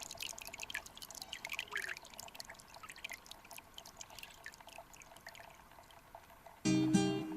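Shallow mountain stream trickling and dripping: many small irregular plinks and splashes over a faint steady rush of water. Acoustic guitar music comes in near the end.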